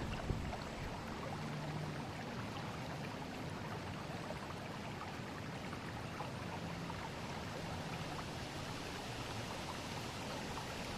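Forest river flowing: a steady, even rush of water with many small trickles and splashes through it.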